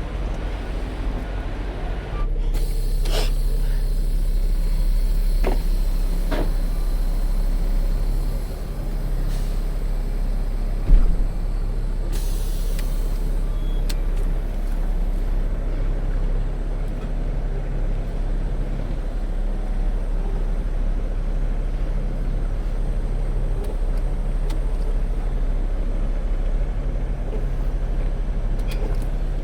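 Semi truck's diesel engine running at low speed while maneuvering, its steady hum shifting slightly a few times. About eleven seconds in there is a single sharp thump, followed right after by a short burst of air hiss.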